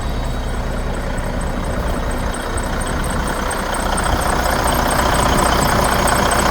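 Detroit DD15 inline-six diesel engine of a semi truck idling steadily, with a broad hiss growing louder over the last couple of seconds.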